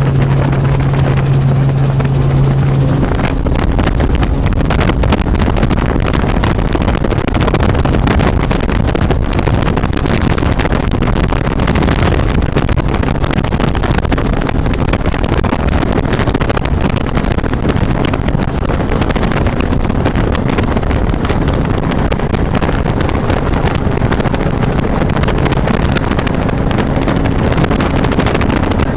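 Helicopter running steadily in flight, heard from on board: a loud, even engine and rotor noise.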